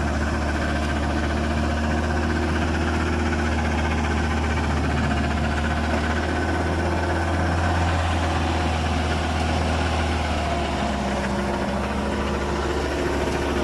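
UAZ off-road vehicle's engine running steadily at low revs, its note shifting slightly about ten seconds in.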